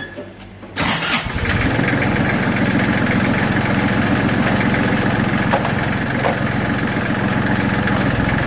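Kubota diesel engine of a homemade wooden truck starting: it fires with a sudden burst under a second in and then settles into a steady, rhythmic run.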